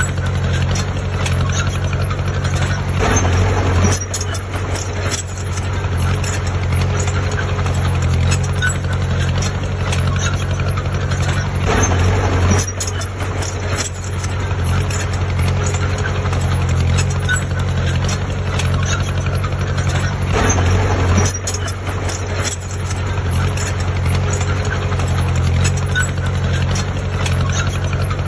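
Heavy diesel engine of construction machinery running steadily with a low drone, with louder rattling surges about three seconds in, about twelve seconds in and about twenty seconds in.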